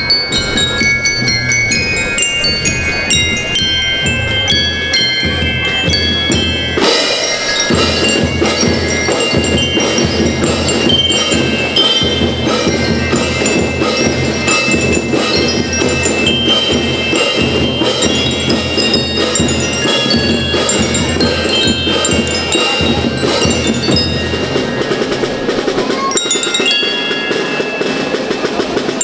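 A school band playing: bell-like mallet percussion carries a quick melody over drums. The band comes in fuller and louder about seven seconds in, and the deepest drum part drops away near the end.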